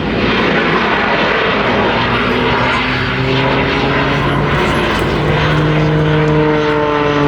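Propeller aircraft flying over, a steady roar with an engine drone whose pitch falls slowly in the second half as it passes.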